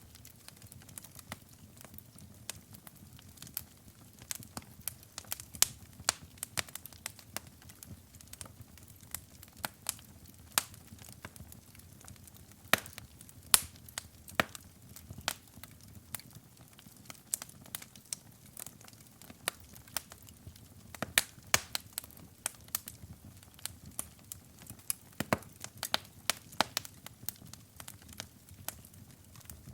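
Wood fire in a fireplace crackling, with sharp irregular pops and snaps over a low steady rumble of flames.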